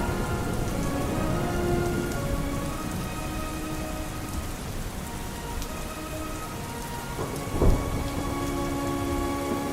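Steady rain falling, with a sudden thunderclap about three-quarters of the way through. Faint, muffled music sustains underneath the rain.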